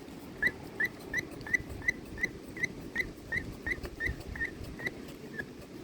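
The rubber primer bulb of a Bu-Ko 52cc petrol backpack leaf blower is pressed over and over, squeaking briefly with each press, about three a second. It is priming through a newly fitted fuel line, which is starting to draw fuel up.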